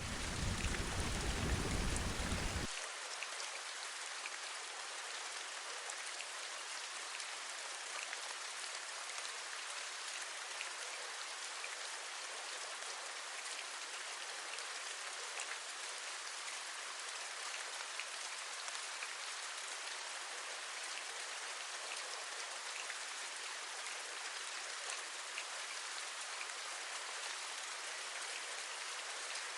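Steady rain with fine drops tapping. During the first two or three seconds a low rumble sits under it, then stops abruptly.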